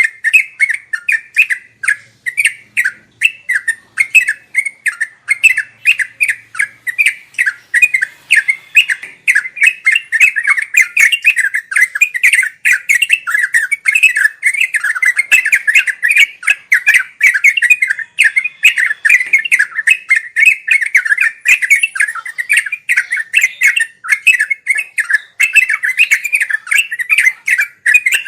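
Yellow-vented bulbul (trucuk) singing a rapid, unbroken chatter of short bubbly notes, several a second with no pauses: the continuous 'ngeropel' song used as a tutor recording for cage birds.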